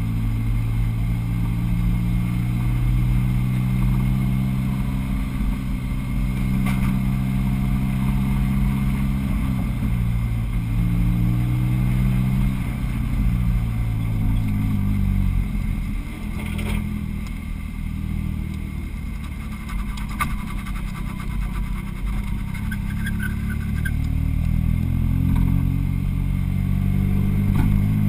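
Car engine running at low revs as the car rolls along slowly, the pitch easing down around the middle and climbing again near the end.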